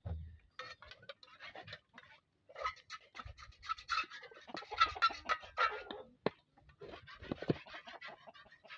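Chickens clucking in many short, repeated calls, busiest in the middle.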